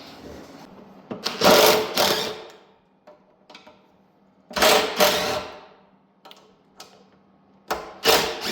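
Three bursts of rapid metallic clatter, each about a second long, from tool work freeing the stuck rear axle and hub of a Honda ATC70 three-wheeler.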